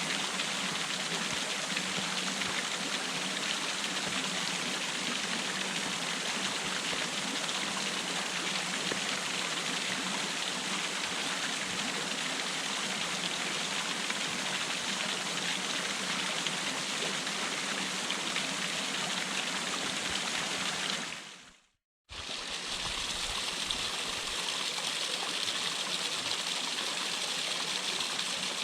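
Water pouring down a cascade, a steady rushing splash. About three quarters of the way through it fades out quickly, goes silent for a moment, then starts again as steady as before.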